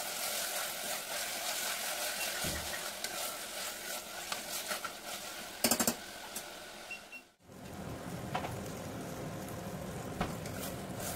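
Mutton pieces frying in a little oil with onions in a pressure cooker: a steady sizzle under the scraping and occasional clink of a steel ladle stirring them. The sound cuts out for a moment about seven seconds in.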